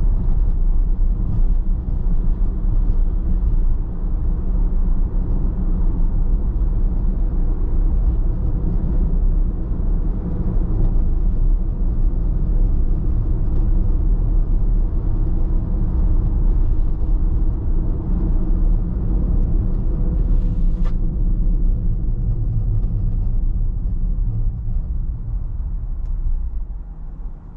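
A car driving: a steady low rumble of tyres and engine. It is broken by a brief high squeak about three-quarters of the way through, and it drops away near the end.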